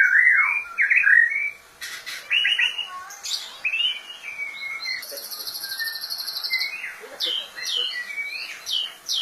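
White-rumped shama (murai batu) singing a varied song: gliding whistled phrases, then a fast, high buzzy trill in the middle, and a run of sharp dropping notes near the end.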